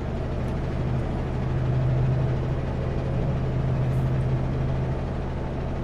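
Kenworth W900L semi-truck's diesel engine running under way at highway speed, a steady low drone over road and tyre noise that swells slightly a couple of seconds in.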